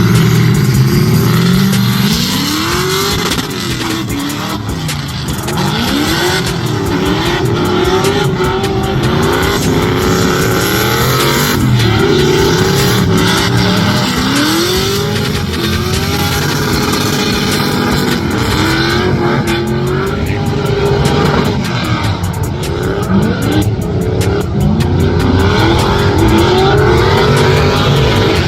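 Drift car engine revving hard and falling back over and over, the pitch sweeping up and down every second or two, with tyre squeal under it.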